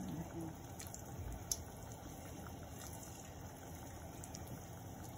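Marinated chicken pieces frying in shallow hot oil in a nonstick pan: a steady low sizzle with a few scattered light pops.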